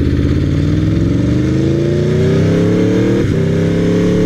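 Aprilia RSV4R's V4 engine through a GPR Thunder Slash exhaust, accelerating hard with its pitch rising, a short break about three seconds in as it shifts up, then pulling on and climbing again.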